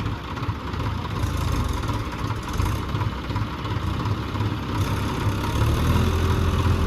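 Diesel tractor engine running steadily, growing louder over the last second or so.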